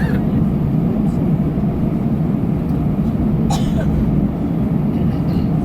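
Steady low rumble of an Airbus A320's engines and airflow heard from inside the passenger cabin, with a brief higher sound about three and a half seconds in.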